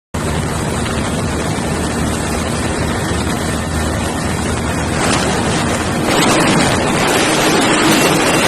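Wind rushing over the microphone of a Bajaj Pulsar NS125 motorcycle ridden at high speed, with its single-cylinder engine running under the rush. The rush grows louder about six seconds in.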